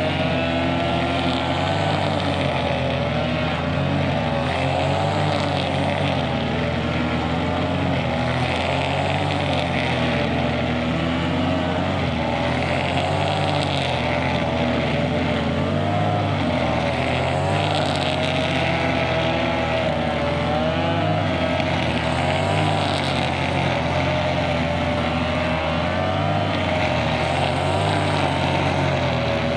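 Two-stroke brushcutter engine running at high speed, its pitch wavering up and down a little as the load changes while it cuts grass.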